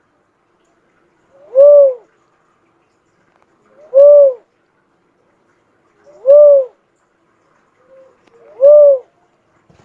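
Cuckoo-dove calling: four single cooing notes, each rising then falling in pitch, repeated evenly about every two and a half seconds.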